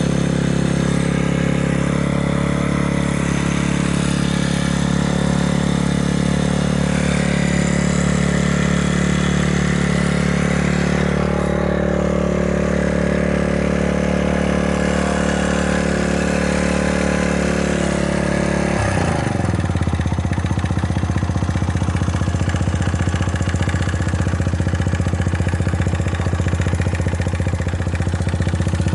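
Honda Ape 50 FI's fuel-injected single-cylinder four-stroke engine running steadily at a raised speed, then dropping to a lower, even idle about nineteen seconds in. It runs with no abnormal noise.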